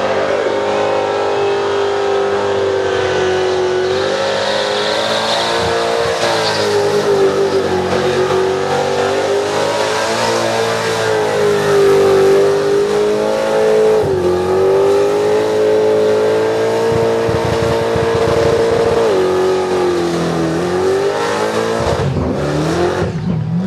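Supercharged Chevrolet V8 in an HG Holden ute held at high revs through a burnout, the pitch wavering up and down as the throttle is worked, over the hiss of spinning rear tyres. The revs dip briefly a few times and fall away near the end.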